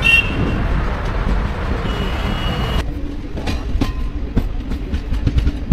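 Ranikhet Express passenger train running on the rails, with wheels clacking. About three seconds in, the sound changes abruptly to a duller rumble with a steady low hum and scattered clicks.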